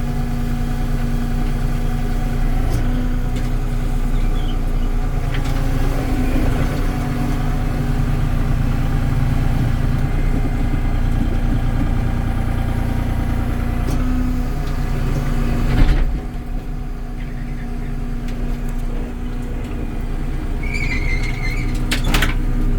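Kubota L3560 tractor's diesel engine running steadily. About 16 s in there is a sharp knock, after which the engine runs a little quieter, and a brief high chirp and clicks come near the end.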